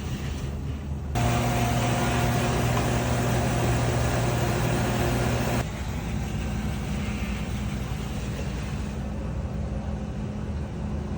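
Commercial dishwasher running with a steady hum; about a second in it gets much louder with a rushing, spraying sound over a steady hum, which cuts off suddenly around five and a half seconds in, leaving the machine running more quietly.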